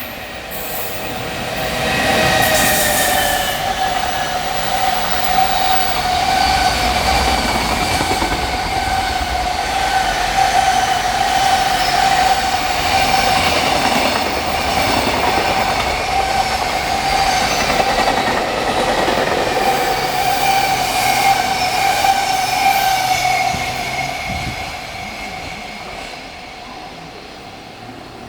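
Freight train passing at close range: the rumble of the wagons with a steady high whine running through it. It builds over the first two seconds, holds, then fades away near the end.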